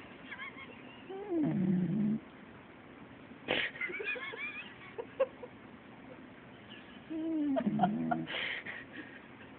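Corgi puppy snoring in deep sleep: two loud pitched snores about six seconds apart, each dipping in pitch, with short breathy exhales and faint nasal whistles between them.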